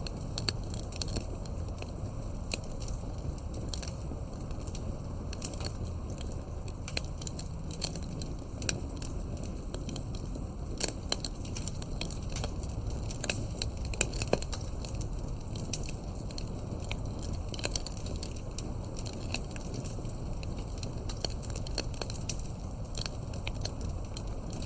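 Campfire burning, a steady low rumble of flame with frequent sharp crackles and pops from the wood.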